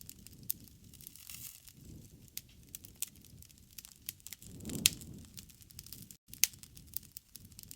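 Campfire crackling: burning wood giving sharp, irregular pops and snaps over a soft low rumble, with one louder pop about five seconds in.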